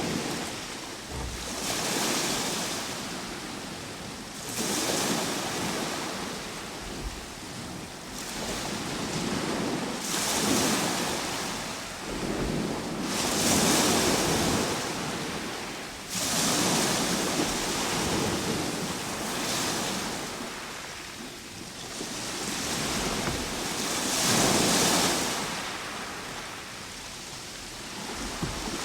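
Ocean waves washing ashore, the surf swelling and falling back every few seconds.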